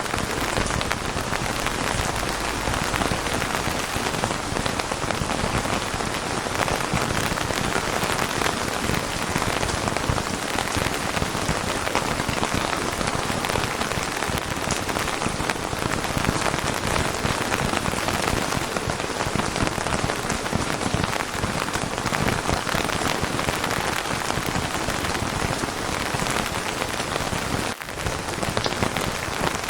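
Steady rain falling on a surface: an even, unbroken patter and hiss of many drops, dipping for a moment a little before the end.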